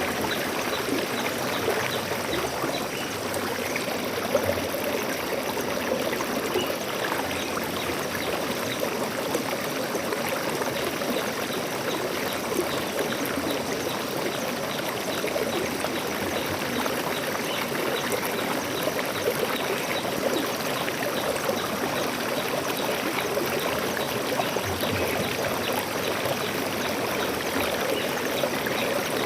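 Stream water flowing and splashing steadily over rocks.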